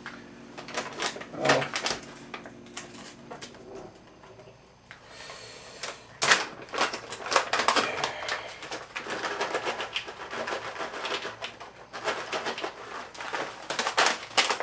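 Small hard pieces, whole almonds and dried berries, clicking and clattering as they drop into a bowl, with a brief rustle about five seconds in.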